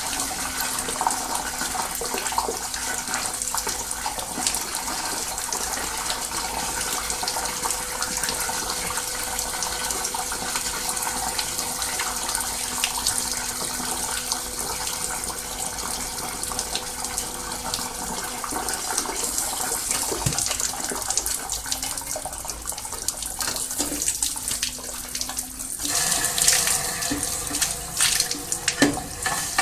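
Hose water rushing and splashing inside a steam boiler as it is washed out section by section to flush out oil and sludge, with a faint steady hum underneath. The sound changes about 26 seconds in, and a few sharp knocks follow near the end.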